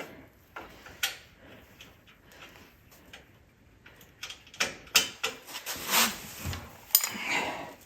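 Workshop handling noise: scattered knocks, clicks and clatter of tools and parts being handled, sparse at first and busier from about halfway through.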